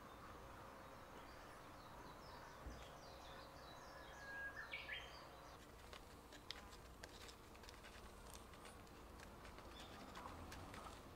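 Near silence: quiet outdoor ambience with a few faint bird chirps about four to five seconds in, then scattered faint clicks.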